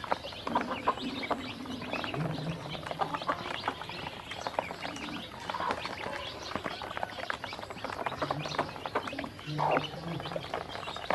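A flock of ducklings feeding, with a dense run of rapid clicking and slapping from their bills working through feed and water. Short low calls break in now and then.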